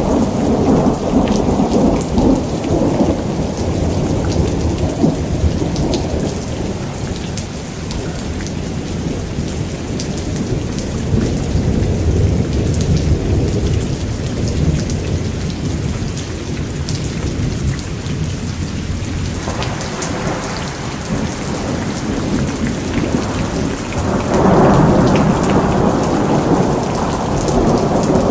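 Steady rain with thunder rumbling in long, rolling swells, loudest at the start and again from about 24 seconds in. Scattered sharp crackles of a fireplace run through it.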